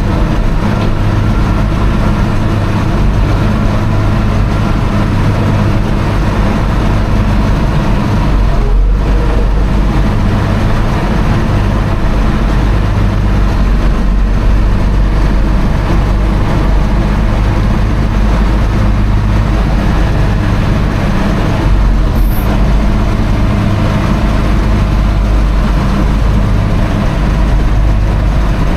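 Versatile four-wheel-drive tractor's diesel engine running steadily with a deep, even drone.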